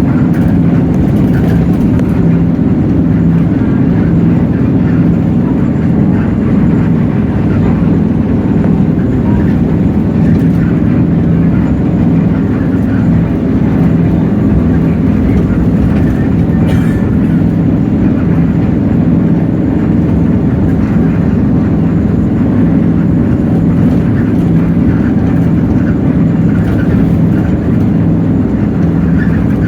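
Hino J08E-VN inline-six diesel engine of a Hino RK8JRVA-KJF city bus running steadily, heard on board: an even, loud low hum with no clear rise or fall in pitch.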